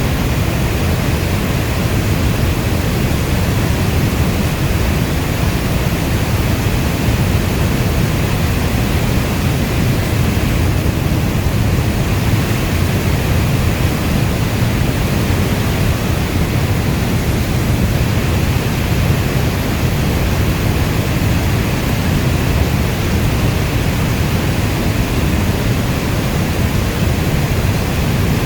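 Heavy rain falling as a steady, even rush, deepest in the low end, with no single drops, thunder or other events standing out.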